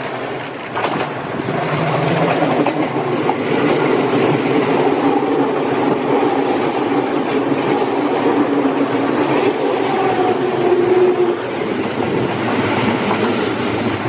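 Electric train running on the rails, a steady rumble with faint whining tones above it, growing louder over the first couple of seconds.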